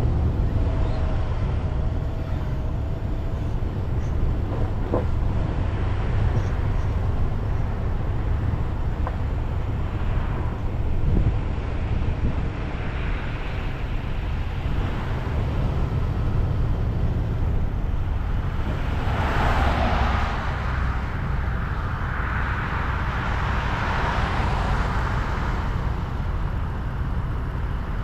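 Car driving along a road: a steady low rumble of tyres and engine, with a rushing hiss that swells about two-thirds of the way through and again shortly after.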